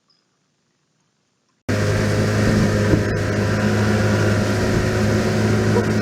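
Near silence, then about a second and a half in an engine starts sounding abruptly, running steadily with a low hum under loud rushing noise.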